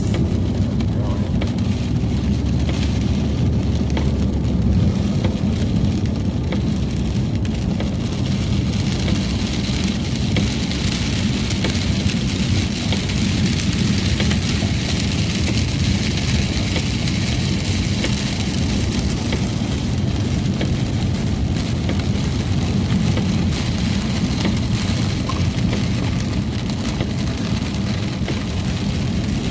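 Car cabin noise while driving: a steady low road and engine rumble, with rain hissing on the car that swells through the middle and eases toward the end.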